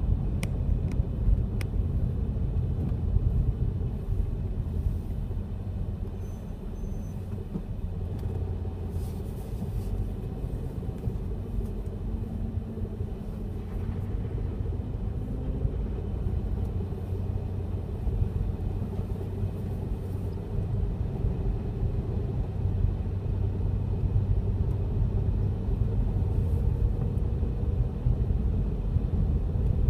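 A car driving along at a steady pace: a steady low rumble of engine and road noise.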